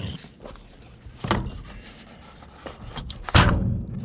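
Hand tools and parts clunking as they are set down in a truck cab, then a loud bang with a short ring-out about three and a half seconds in.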